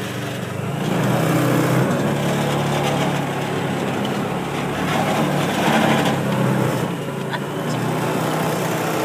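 Small engine of a ride-on farm vehicle running as it is driven, getting louder about a second in and varying a little as it goes.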